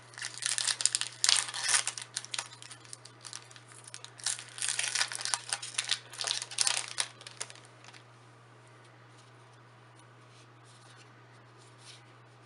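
A Magic: The Gathering booster pack's foil wrapper being torn open and crinkled for about eight seconds, then only a few faint ticks.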